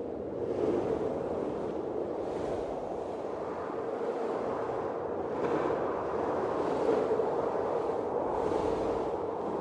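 Blizzard wind blowing steadily, with gusts swelling and hissing higher every couple of seconds.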